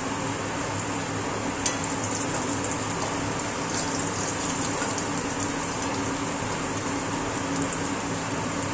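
Brinjal slices sizzling in hot oil in an aluminium kadai while a flat spatula turns them, with one sharp tap of metal on the pan a little under two seconds in. A steady low hum runs underneath.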